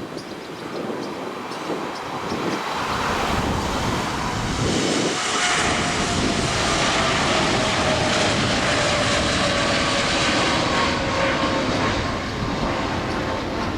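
An airliner's engines passing the observer: the noise builds over the first few seconds to a loud, steady level, with a whine that slowly falls in pitch as the aircraft goes by.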